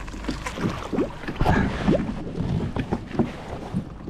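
Irregular knocks and bumps on a kayak while a hooked bass is being fought, over a steady low rumble of wind on the microphone.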